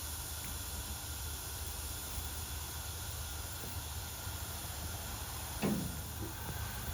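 Steady hiss of steam in a steam locomotive's cab, over a low rumble. A brief sound falling in pitch cuts in about five and a half seconds in.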